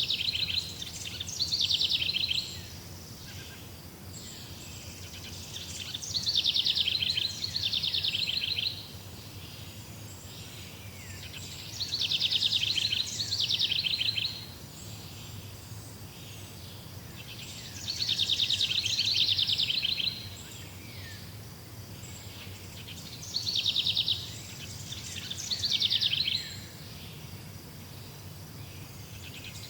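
A songbird singing a rapid trilled phrase, high-pitched, about every six seconds, each phrase lasting two to three seconds, over a steady low background hum.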